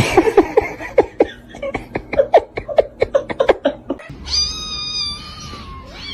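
A cat gives a fast run of short, sharp yowls, about four or five a second, for roughly four seconds. Then comes one long, steady meow lasting about a second and a half.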